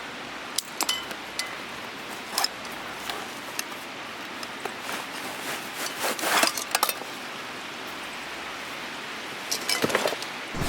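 A few light clinks and knocks of small hard objects, with a cluster about six seconds in and another near the end, over a faint steady hiss.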